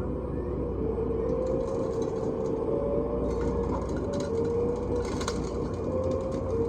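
Scale radio-controlled construction machine working: a motor whine that wavers slightly in pitch as the load changes, over a low rumble, with crackling scrapes of dirt and gravel in the middle.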